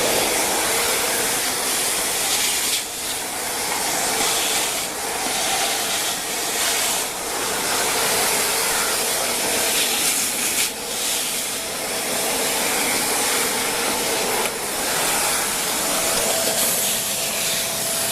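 Shark Rotator Speed Lift-Away upright vacuum running, its brushless motor drawing air through the crevice tool: a steady rushing hiss with a faint whine. The level dips briefly a few times as the nozzle is worked along the baseboards.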